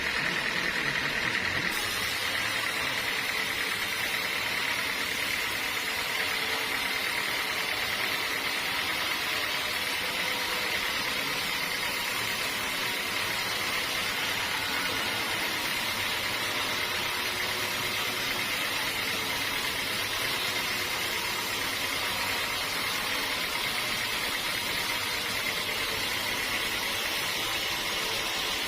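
Sawmill saw machinery running steadily, with a constant high whine over a broad mechanical noise and a lower motor hum.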